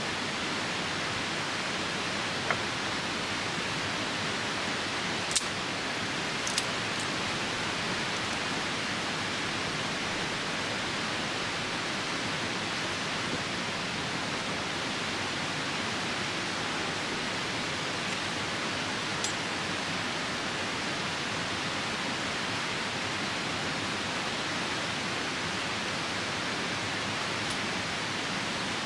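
Steady rushing of a nearby river and rain, with a few sharp pops from the burning campfire wood, about 2.5, 5.5, 6.5 and 19 seconds in.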